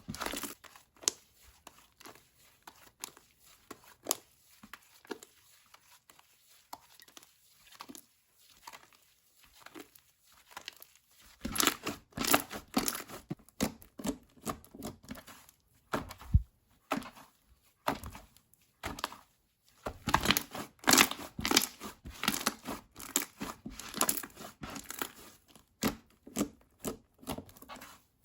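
Slime being handled: squeezed, stretched and pulled apart by hand. It starts with faint scattered clicks, then from about eleven seconds in comes louder, denser bursts of sticky popping and tearing sounds.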